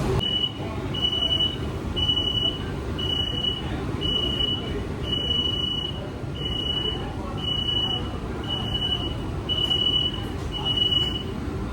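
An electronic warning beeper in an AC local electric train coach sounds eleven short, high, steady beeps, about one a second, over the low rumble of the train.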